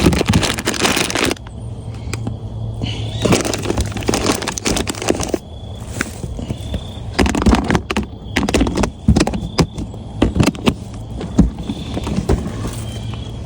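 Spice jars and bottles knocking, clicking and rustling as they are handled and put away, an irregular clatter over a low steady hum.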